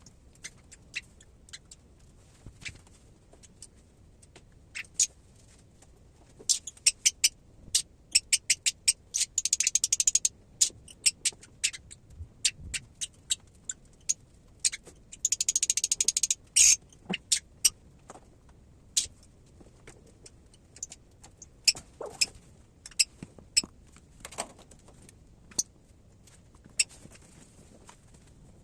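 Parrot chick hatching: scattered sharp taps and clicks of eggshell, with two bursts of fast crackling, one about a third of the way in and one just past halfway.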